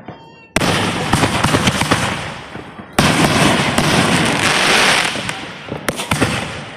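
Fireworks crackling: two long runs of dense, rapid pops, the first starting suddenly about half a second in and the second about three seconds in, dying away near the end.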